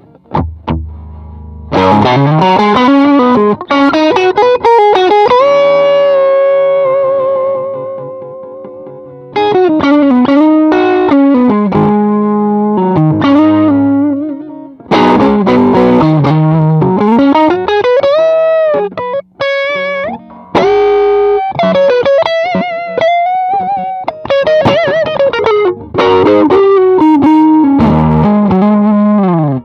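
Electric guitar played through a 68 Pedals Inca Kola overdrive, a Zendrive clone, playing bluesy lead phrases with string bends, vibrato and held notes, the tone lightly overdriven. The phrases are separated by short pauses, near 8 s and 14 s.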